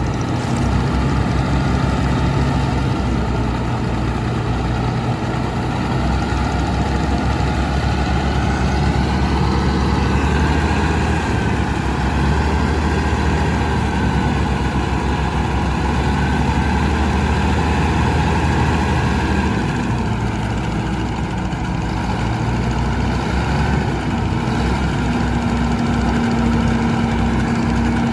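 Heavy diesel engine running steadily, its note shifting a little twice as the machine is worked.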